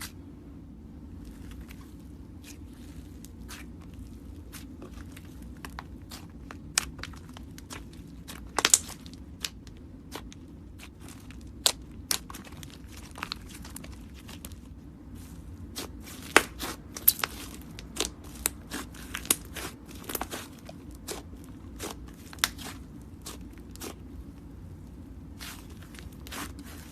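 Slime with clay worked into it being squished and stretched by hand, giving irregular sharp crackles and pops, some of them loud, over a steady low hum.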